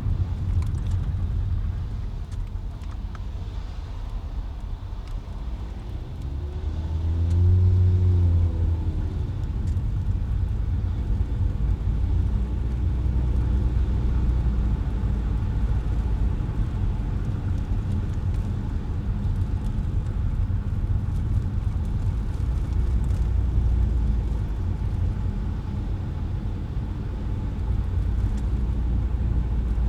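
Car driving through city traffic: a steady low road and engine rumble, with an engine note that swells and rises then falls in pitch about seven to nine seconds in.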